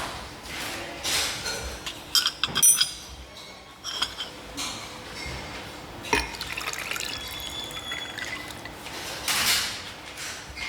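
Liquid being poured into a glass, with a cluster of ringing glass or china clinks about two to three seconds in and a single knock about six seconds in.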